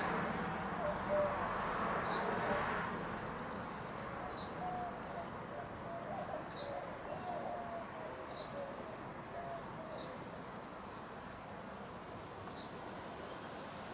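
Birds calling: a short high chirp repeated about every two seconds, over lower held notes for most of the stretch. A rushing noise fades away about three seconds in.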